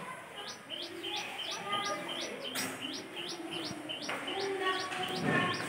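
A bird repeating a short, high call note about four times a second, each note sliding quickly down in pitch.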